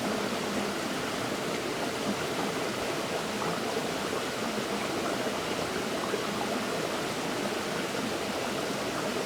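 River water flowing steadily over rocks, an even rushing and burbling.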